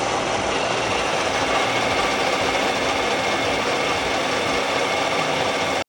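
A machine or power tool running steadily, giving an even noisy whir with a faint steady whine over it.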